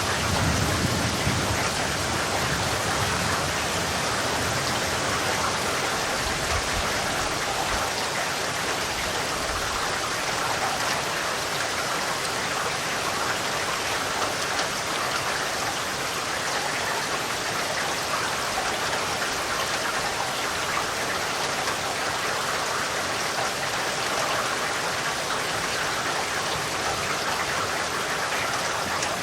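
Steady rain: a dense, even hiss of falling drops. A low rumble underneath during the first several seconds fades away.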